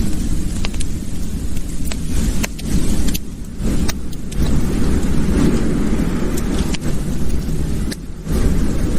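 Wood fire crackling in a fireplace: scattered sharp pops and snaps over a steady low rumble from the burning fire.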